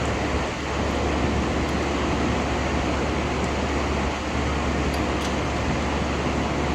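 A steady rushing noise with a constant low hum, like a fan running, and a few faint ticks.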